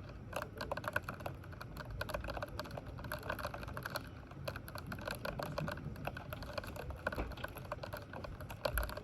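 Computer keyboard being typed on: quick, irregular key clicks throughout, with a brief low thud near the end.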